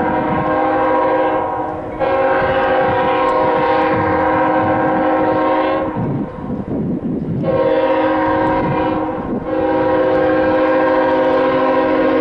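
Locomotive multi-chime air horn sounding a chord in loud, steady blasts: the end of one blast, a long blast, a shorter one and another long one, the long-long-short-long pattern of a grade crossing warning. The rumble of the moving train comes through in the gaps.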